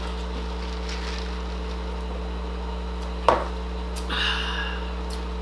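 A single sharp knock about three seconds in, as of a hard object set down on a table, over a steady low electrical hum, followed by a brief soft rustle.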